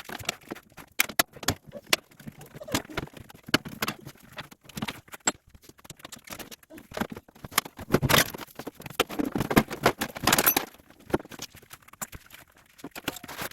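Irregular metallic clicks, clinks and knocks of hand tools and loose parts as a 125cc motorcycle is taken apart, with louder scraping and rattling about eight seconds in and again around nine to ten seconds.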